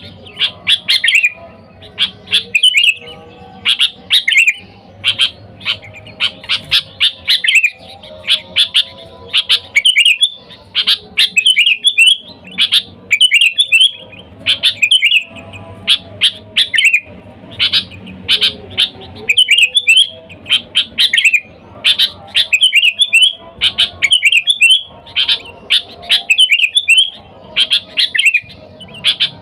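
Sooty-headed bulbul (kutilang) singing loudly, short phrases of quick chirping notes repeated about once a second: the bird's basic calling song, used to lure wild bulbuls.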